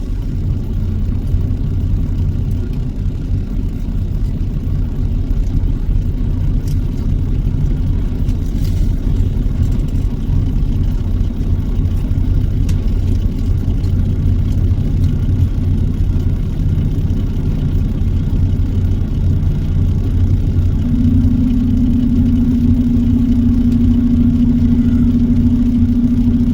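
A truck engine running as it drives, with road noise, a steady low rumble. A steady hum joins in near the end.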